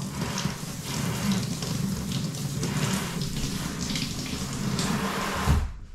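Hot water running from an open faucet, flushing air out of the lines of a newly installed water heater; the flow is shut off near the end.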